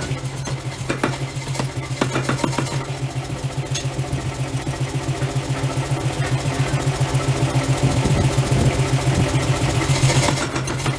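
Forging machinery running: a steady low hum with rapid, rhythmic mechanical knocks, several a second.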